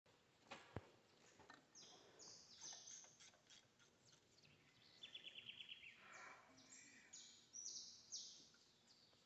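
Faint birds chirping repeatedly, with a quick trill about five seconds in, over a few light clicks of a hand wrench on the engine's cylinder head.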